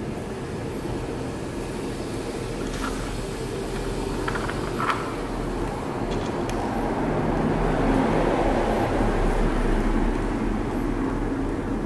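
Steady rumbling background noise with a low hum. It grows louder in the middle and carries a few faint clicks.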